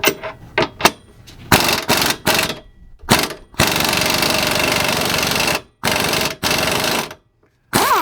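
Pneumatic impact wrench hammering in bursts on a stuck hitch mounting bolt: a few short blips, then a run of about two seconds, then two shorter runs.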